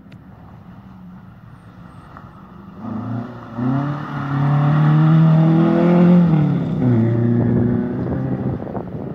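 Historic rally car's engine revving hard as the car approaches and passes along a gravel stage: the pitch climbs, falls back at gear changes about three and a half and seven seconds in, and is loudest about two thirds through before fading away.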